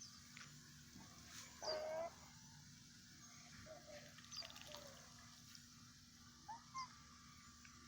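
Pet goose giving soft short calls: one held note about two seconds in and two quick calls near the end, with faint chirps of small birds in the background.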